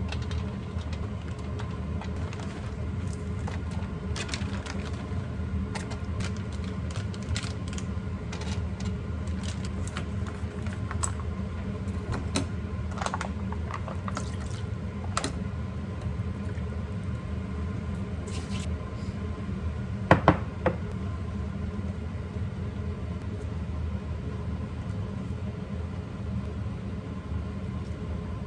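Scattered light clicks and taps of small objects being handled, over a steady low hum, with a sharp double knock about twenty seconds in.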